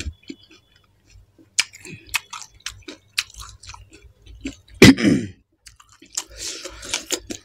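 Close-up mouth sounds of eating pani puri: wet chewing with many short crisp cracks from the puffed shells, and one louder crunch about five seconds in.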